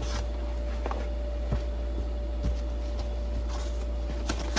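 A steady low hum with a few faint knocks and rustles of packaging being handled.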